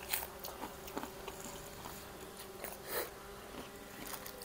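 Chewing and mouth smacks of people eating nasi goreng with their fingers, with a few short, sharp clicks about a second apart over a faint steady hum.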